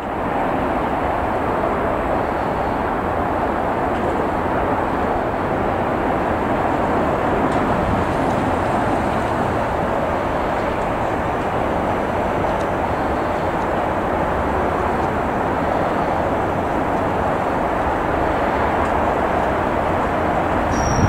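Class 230 D-Train diesel multiple unit approaching slowly, with a steady, even running noise from its engines and wheels.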